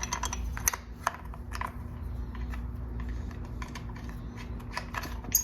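Irregular small metallic clicks and taps of bolts being handled and threaded by hand into a motorcycle tail mount, busiest in the first second and a half and again near the end, over a steady low hum.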